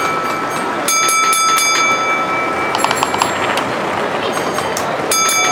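A sound-fitted model locomotive sounding a high, steady horn twice, each for about a second, over a steady din of exhibition hall noise. A short run of rapid clicking comes about three seconds in.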